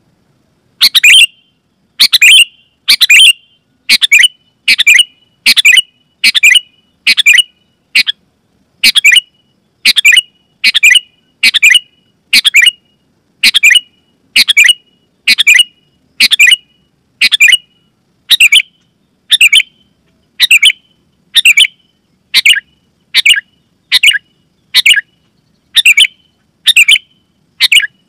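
Sooty-headed bulbul (kutilang) giving short, bright, loud calls over and over, about one a second.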